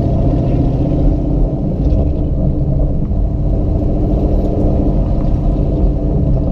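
Ford Mustang GT's V8 engine running at low speed, a steady low rumble heard from inside the cabin.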